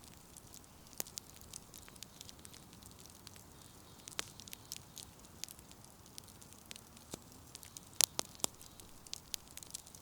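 Firewood burning in a bonfire, crackling with irregular sharp pops and snaps over a faint steady hiss; the loudest pops come in a quick cluster about eight seconds in.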